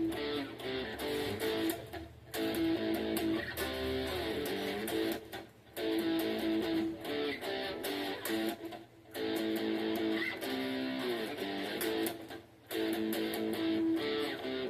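Guitar chords strummed and picked through a short repeating progression, A–C–G–A, in phrases of about three seconds each with brief breaks between them. Played quietly.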